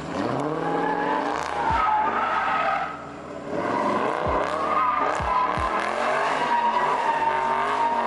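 A car drifting: tires squealing in long, wavering tones with the engine revving hard beneath. The sound eases briefly about three seconds in before the squeal picks up again.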